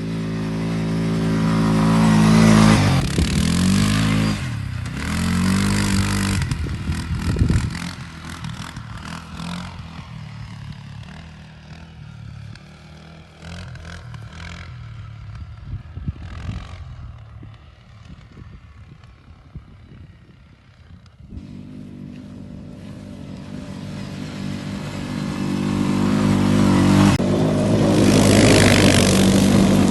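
An off-road vehicle's engine revs and climbs in pitch, then fades away, leaving a quieter stretch with scattered clattering knocks. Around two-thirds of the way in the engine comes back and builds to loud running near the end.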